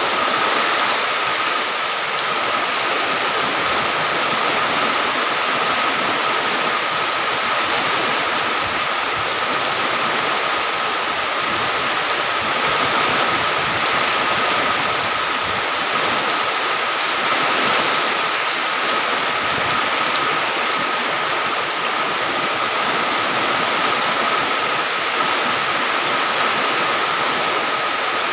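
Rain falling steadily, a dense even hiss that does not let up, with a steady high tone running underneath it.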